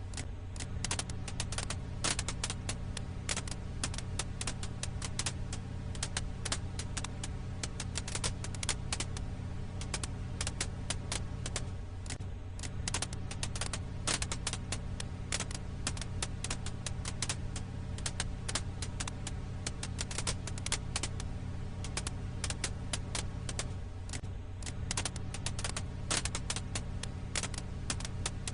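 Campfire firewood crackling: frequent sharp pops and snaps over a steady low rumble, the same stretch of sound repeating about every twelve seconds as a loop.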